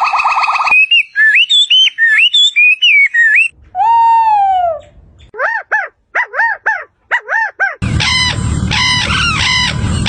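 Several different bird calls cut one after another: warbling chirps, then one long falling call, then a quick run of about six short arched calls, then a harsher repeated call over a noisy background near the end.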